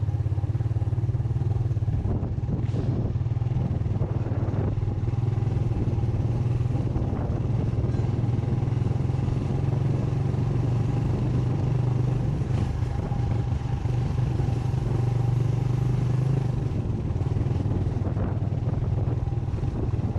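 Motorcycle engine running steadily under way, a loud low engine note with road and wind noise over it, easing slightly about three-quarters of the way through.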